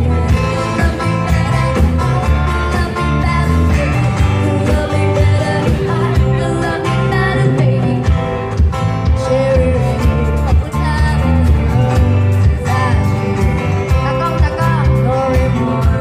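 A band playing live, with a singer, guitar and a heavy, pulsing low end.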